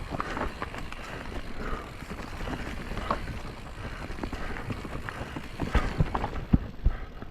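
Mountain bike riding over a rough dirt trail: tyres rolling and the bike rattling with many small clicks and knocks, and a few harder thumps near the end as it hits bumps.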